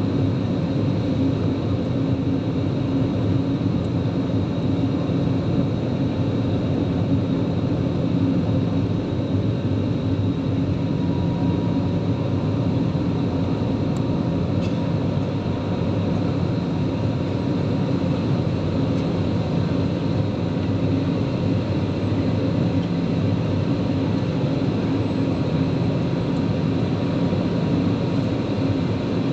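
Steady jet airliner engine and airflow noise heard inside the passenger cabin, a constant roar with a low hum and a faint high whine that does not change.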